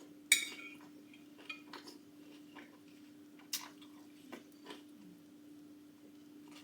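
Cutlery clinking against a dish while eating: one sharp ringing clink about a third of a second in, then several lighter taps and clicks, over a steady low hum.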